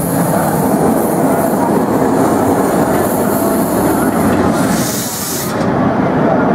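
Cedar Point & Lake Erie Railroad steam train running along the track: a steady rumble and rattle of wheels on rails. A high hiss over it cuts off suddenly near the end.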